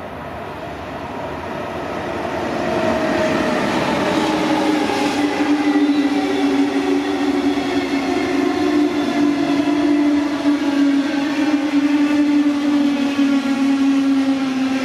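Electric-hauled double-deck regional train passing at speed: a rush of wheels on rails that builds over the first few seconds and then holds, with a steady humming whine that drifts slowly lower in pitch as the train goes by.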